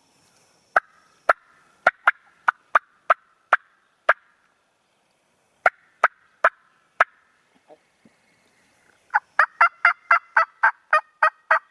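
Turkey yelping: a series of sharp, evenly pitched single notes in three runs, the last a fast string of about a dozen yelps.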